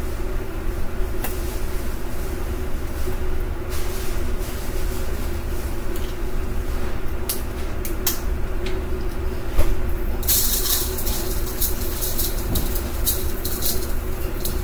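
Steady low mechanical hum under scattered light clicks and knocks of kitchen handling. From about ten seconds in comes a run of dry rattling hiss with quick ticks.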